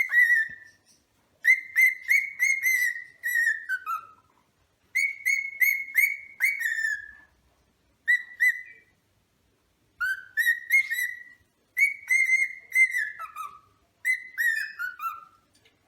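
Cockatiel singing: a series of short phrases of quick, clear whistled notes on nearly one pitch, many phrases ending in a falling slur, with brief pauses between them.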